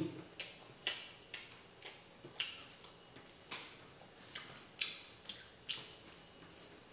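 Soft, wet mouth sounds of a person chewing fried egg and rice: a run of short smacking clicks, roughly two a second, unevenly spaced.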